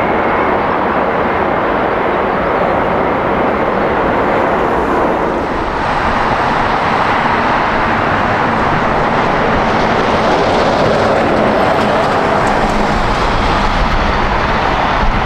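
Jet airliner engines running loud and steady close by. The sound gains a higher whine from about six seconds in, and a deep rumble builds near the end.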